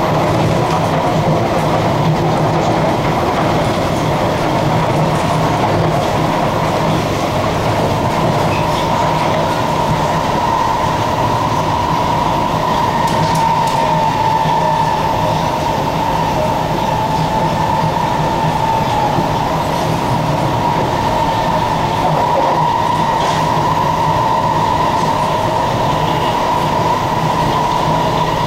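Kawasaki-CRRC Sifang C151C electric train running at speed, heard from inside the passenger car: steady running noise with a high whine that holds nearly level, dipping slightly midway.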